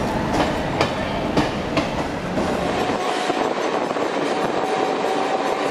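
Suburban electric train rolling by, its wheels clicking over rail joints about twice a second. About two and a half seconds in, the sound changes to a steadier running rumble with a faint thin whine.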